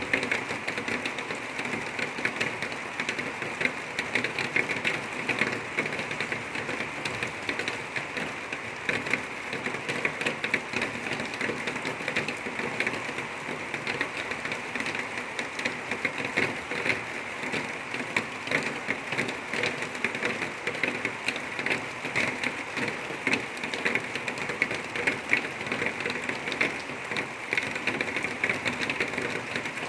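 Water-well drilling rig running steadily as it drills down a length of drill pipe, a continuous machine noise with fine rapid clicking, while rain patters.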